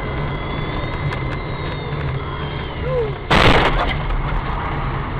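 Steady car engine and road rumble heard from inside a moving car, with a sudden loud impact noise of about half a second a little over three seconds in.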